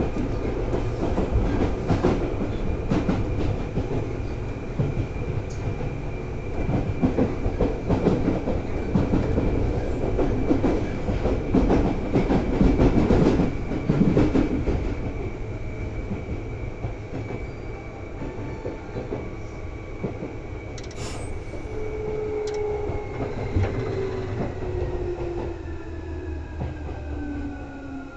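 Seibu 2000 series electric train heard from inside: wheels rumbling and clattering on the rails under a steady high whine. In the last third the whine and a lower tone fall steadily in pitch as the running noise eases, the train slowing down.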